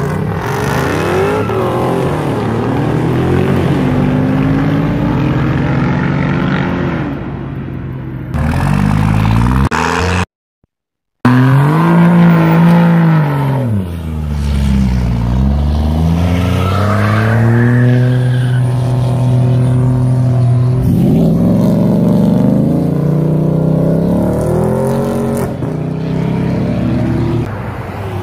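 Car engines revving and accelerating hard one after another, their pitch climbing and falling repeatedly; a Dodge Charger pulls away at the start. Partway through, a pickup truck revs hard through a burnout with its tyres spinning, and there is about a second of dead silence shortly before.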